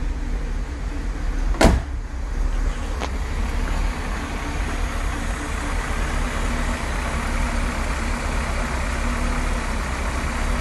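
1960 Cadillac's 390 cubic-inch V8 idling steadily on its own after warm-up, running smooth and quiet. A single sharp door thump about two seconds in.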